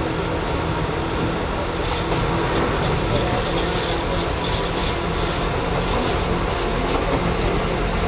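Seibu 2000 series electric train heard from inside the car, a steady running rumble of wheels and motors. From about three and a half seconds in, short high-pitched squeals come and go over it.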